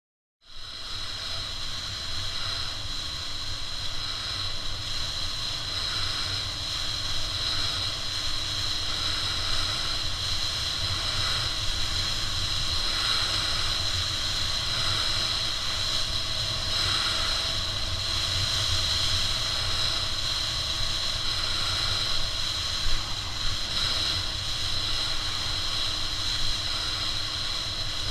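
Motorcycle riding along at a steady pace: the engine runs continuously under a steady rush of wind noise. It starts abruptly just after the beginning.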